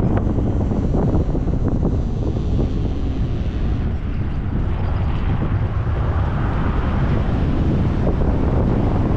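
Heavy wind buffeting the microphone on a moving electric motorcycle: a loud, steady low rumble of rushing air with no engine note.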